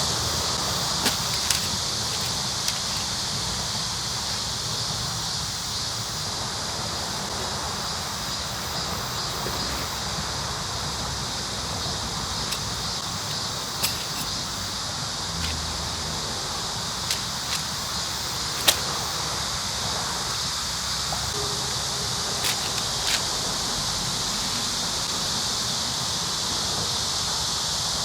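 Steady, high-pitched insect buzzing, with scattered short clicks and knocks from a tent being pitched.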